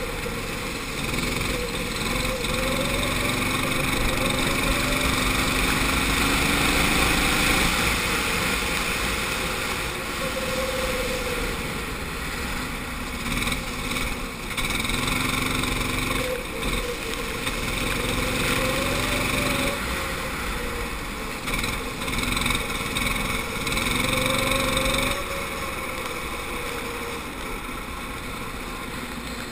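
Go-kart engine heard onboard during a wet lap, its pitch climbing on the straights and dropping back several times as the throttle is lifted for corners. The last few seconds are a little quieter.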